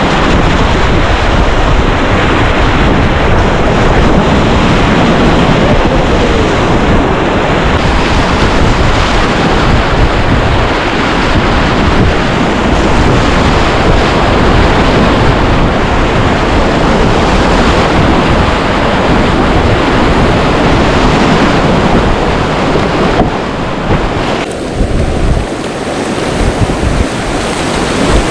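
Loud, steady rush of whitewater rapids close to the microphone, with wind buffeting it. The sound changes abruptly a few times and turns quieter and more uneven near the end.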